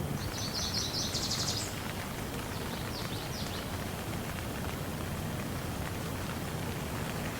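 Steady rain falling, with a bird singing a rapid, high, trilled series in the first couple of seconds and a few short high notes about three seconds in.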